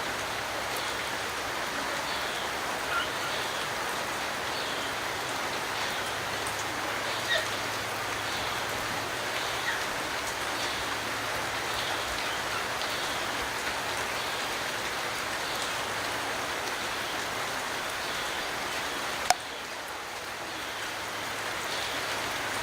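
Steady rain falling and pattering on surfaces. A single sharp click about nineteen seconds in, after which the rain sounds briefly quieter.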